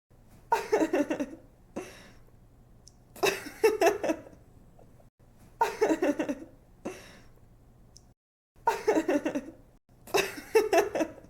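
A young woman laughing: five short bursts of giggling, each about a second long, coming roughly every two to three seconds with quiet breaths between.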